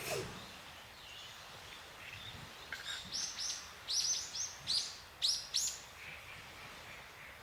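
A wild bird calling: a quick run of about eight short, high, downward-slurred notes from about three seconds in, over a faint steady background hiss.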